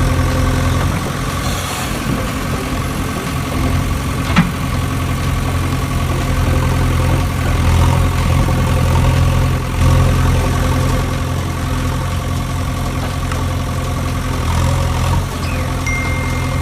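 Steady low engine idling hum with slight swells in level, and a single short click about four and a half seconds in.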